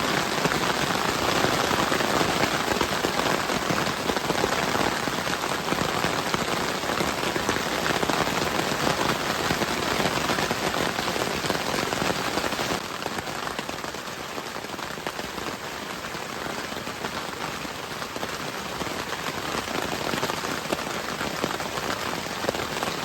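Steady heavy rain falling, a dense even hiss of drops that becomes a little softer about halfway through.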